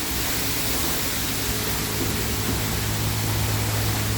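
High-pressure water spray from a self-serve car wash wand, a steady hiss with a steady low hum underneath.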